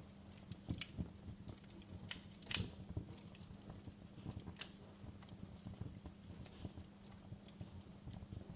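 Wood fire crackling in a fireplace: irregular snaps and pops from the burning logs, the loudest snap about two and a half seconds in, over a low steady hum.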